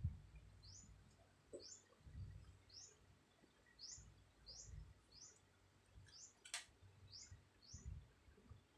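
Faint, short, high rising chirps repeated about once a second, a small bird calling, with a single sharp click about six and a half seconds in.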